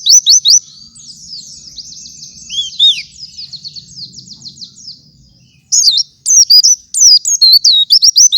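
Pleci (a white-eye, Zosterops) singing: rapid high chirping phrases of quick down-slurred notes. The song is loud at first, turns to softer fast twittering in the middle, then comes back loud from about six seconds in.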